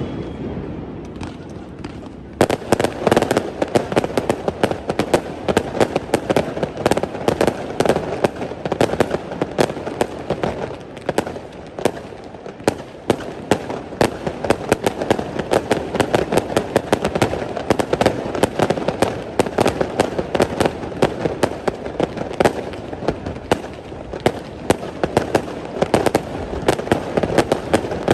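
Aerial fireworks exploding overhead. A fading rumble from a burst gives way, about two seconds in, to a dense, continuous crackle of many sharp pops over a steady rumble.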